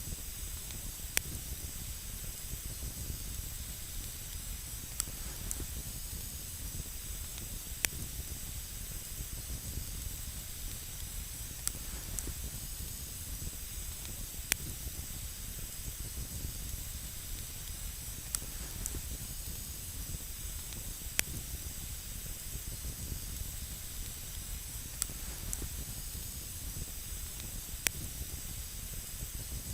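Campfire burning with a steady hiss, broken by sharp single crackles and pops every few seconds at irregular intervals.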